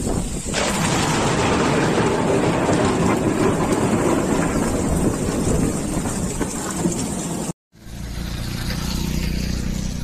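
Heavy cyclone rain pouring onto a flat concrete rooftop: a dense, steady rushing hiss that swells about half a second in. It cuts off suddenly near the end and gives way to a lower, steadier rumble of a car on a wet road.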